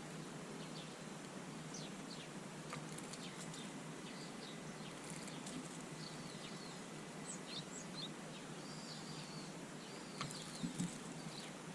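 Small garden birds calling with many short, high chirps scattered throughout, over a steady background hiss. A couple of brief knocks near the end.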